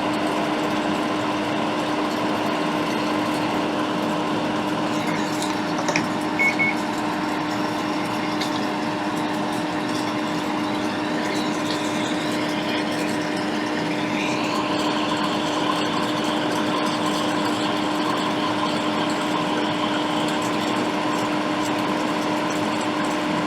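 Hot air rework station blowing steadily while components are heated off a laptop logic board, a constant hum with a steady low tone. Two short high blips come about six seconds in, and a higher whine rises about fourteen seconds in and then holds.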